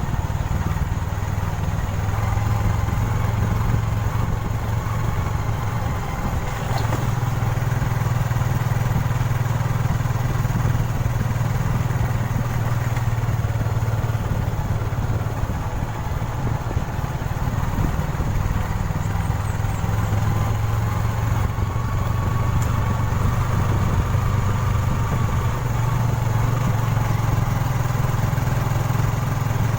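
Small motorcycle engine running at low speed, steady, with the engine note easing off briefly a couple of times.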